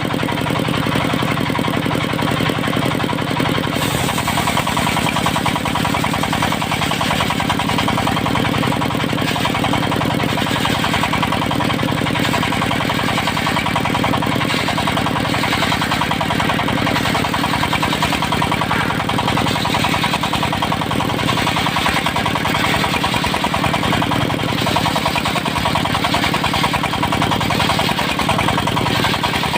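Engine of a mobile circular sawmill running steadily, with a brighter hiss joining about four seconds in.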